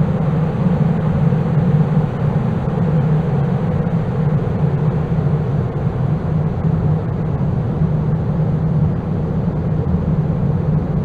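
Dark ambient noise drone: a loud, steady, low rumble with a hiss on top that does not change.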